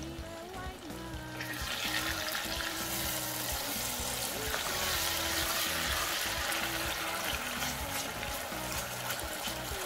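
Chopped tomatoes and tomato paste sizzling and crackling in butter in a stainless steel pan while a spatula stirs them. The sizzle comes up about a second in and stays steady, with background music underneath.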